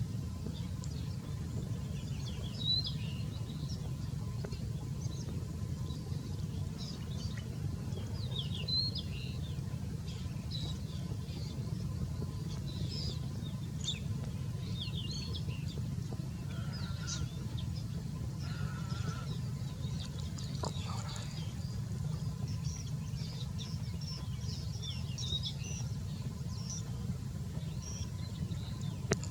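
Small birds chirping, many short high chirps throughout, over a steady low rumble.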